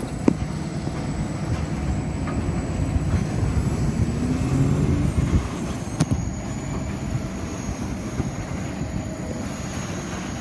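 Diesel-electric locomotives of a heavy grain train running as the train pulls away from a stop. There is a steady low engine rumble with a high whine above it, and the rumble swells about four to five seconds in. Two sharp knocks come, one just after the start and one about six seconds in.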